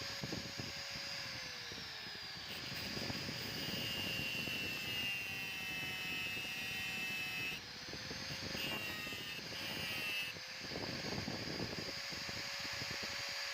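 Electric grinder running steadily on steel, its motor pitch sagging twice for a second or two as it is pressed harder into the work.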